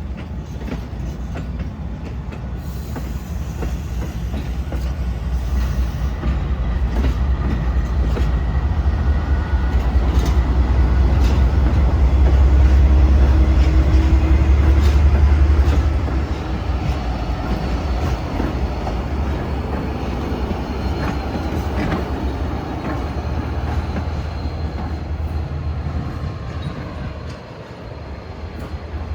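Amtrak diesel-hauled passenger train passing close by. The locomotive's engine rumble builds to its loudest about halfway through, then drops suddenly, while the wheels clatter over the rail joints and squeal with thin, steady high tones.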